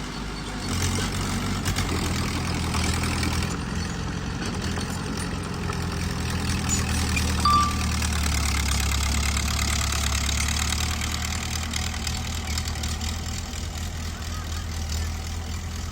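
Diesel engine of heavy earthmoving machinery running steadily, growing a little louder for a few seconds past the middle. A brief high squeak sounds once about seven and a half seconds in.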